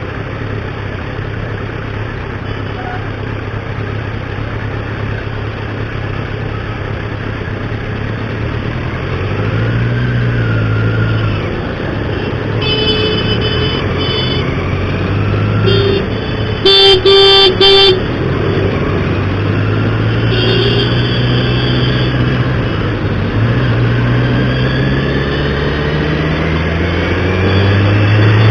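Road traffic: motor vehicle engines running with pitch rising and falling, and vehicle horns honking three times. The loudest honking is a burst of toots a little past the middle.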